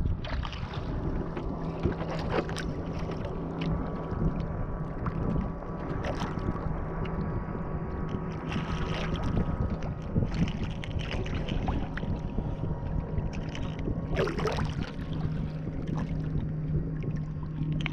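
Wind noise and water slapping against the hull of a small skiff, with a steady low hum and occasional short knocks and splashes.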